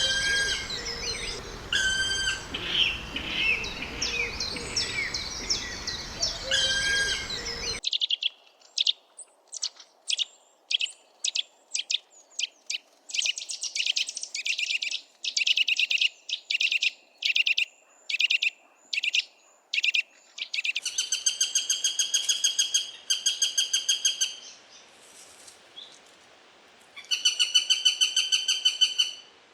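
Wild birds calling, from two different recordings. The first has chirping calls over background noise and cuts off suddenly about eight seconds in. The second is a single clear voice giving series of short, sharp, high notes, then fast rattling trills toward the end.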